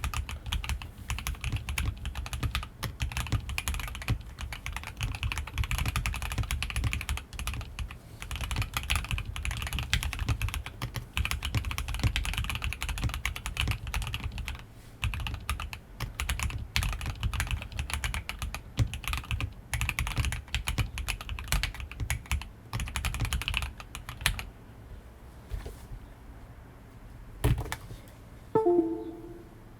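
Typing on a KBD67 Lite R1 mechanical keyboard with lubed and filmed C3 Fierce Girls switches and Durock V2 stabilizers: a fast, steady run of keystrokes. The typing stops about 24 seconds in. Near the end there is a single knock, then a short pitched ringing sound.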